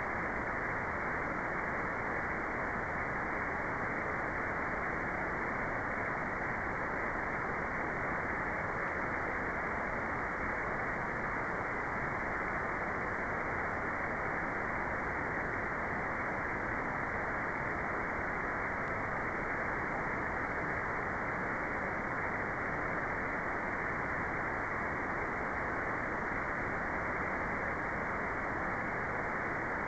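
Steady electronic white noise, an even hiss cut off above about 2 kHz, with no change in level.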